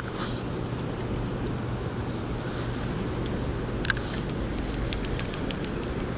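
Steady low rushing rumble of dam tailwater current, with a faint thin high tone that stops a little over halfway and a single sharp click just after.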